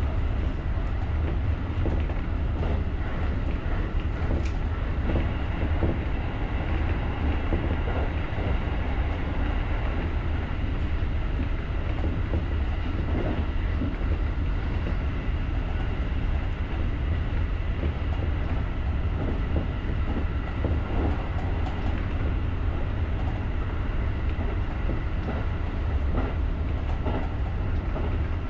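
JR rapid electric commuter train running steadily at speed: a constant low rumble of wheels on rail with scattered light clicks and a faint steady whine.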